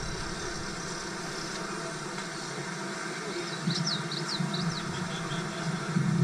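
Steady low hum of a vehicle engine running, with a quick series of short high chirps about three and a half seconds in.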